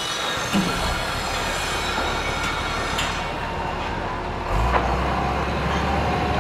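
Heavy construction machinery running: a low engine rumble that grows louder about four and a half seconds in, with high metallic squeals and a few sharp knocks.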